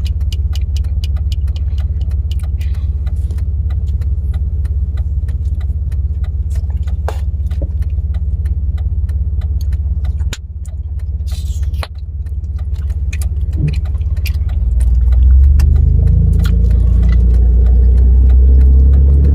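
Road and engine noise inside a moving truck's cab: a steady low rumble with frequent small rattling clicks. A bit past two-thirds of the way in, the engine note grows louder and climbs slowly in pitch as the truck speeds up.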